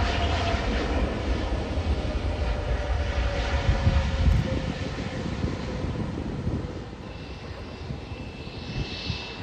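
Jet airliner's engines going past and away: a heavy low rumble with a whine that falls in pitch, fading over the second half.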